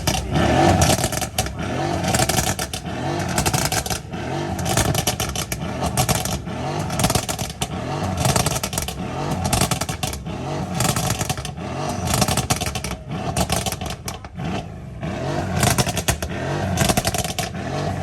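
Performance car engines revving over and over, the pitch climbing and dropping about once a second, with a dense crackle from the exhausts.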